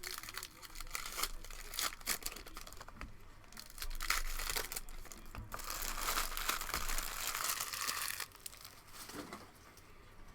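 A plastic trading-card pack wrapper being torn and crinkled, with the heaviest crinkling in the middle and the noise dying down near the end.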